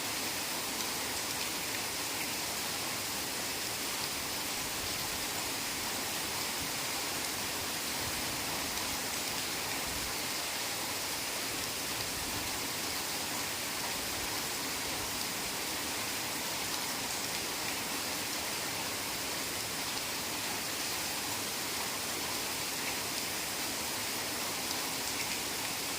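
Heavy rain falling steadily, an even hiss of many drops without a break.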